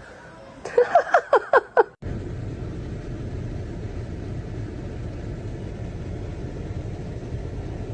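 A quick run of short, high, pitch-bending cries about a second in, then a sudden change to a steady low rumbling noise, like a running vehicle, to the end.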